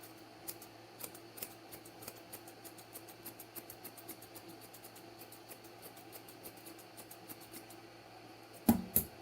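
Grooming scissors snipping through a dog's ear hair in quick small cuts, several a second, followed by two loud knocks near the end.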